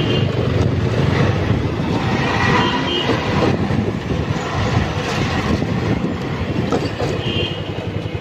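Loud, steady rumble of a moving vehicle, with a few brief higher-pitched squeals over it.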